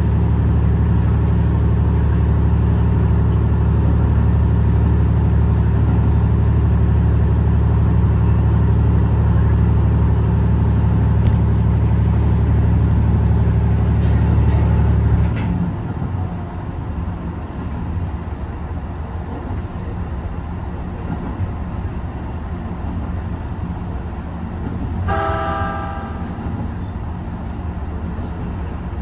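Hybrid diesel train running: a steady low engine drone over the rumble of the wheels. About halfway through the drone drops away suddenly, leaving a quieter running rumble. Near the end the horn gives one short toot.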